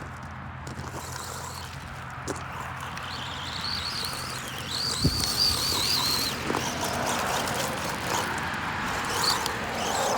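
Electric RC car's brushed 550 motor whining as it is driven, the pitch wavering with the throttle, loudest from about three to six seconds in, with one thump about halfway.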